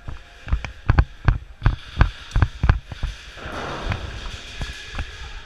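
Airsoft gun firing a string of sharp single shots, about nine in the first three seconds at an uneven pace, then a few fainter shots near the end.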